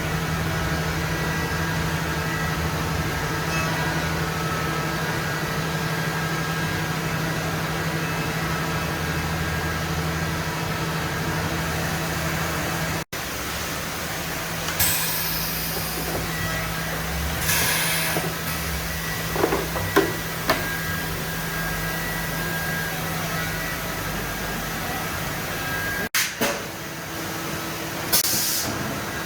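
Steady hum of a HOMAG CNC working center's motors and pumps, broken by several short hisses of compressed air and a few light clicks. The sound cuts off abruptly twice.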